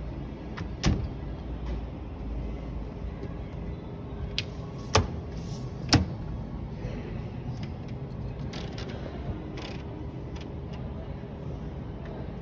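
Steady low background hum of a shop floor with three sharp clicks or knocks: a small one about a second in and two louder ones about five and six seconds in.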